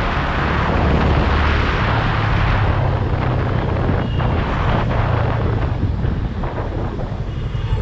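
Yamaha FZ25's single-cylinder engine running under way, its note stepping up in pitch about two seconds in, with strong wind rush on the microphone.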